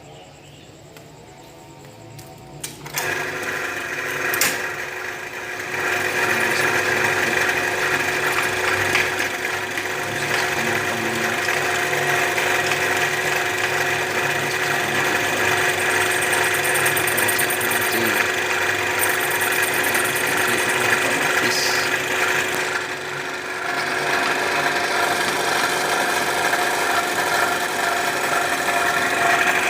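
Electric cylinder boring machine starting up about three seconds in and running steadily as it rebores a motorcycle cylinder, with a short dip in level around two-thirds of the way through. The cylinder is being bored out from 100 to 150 oversize because the engine was smoking.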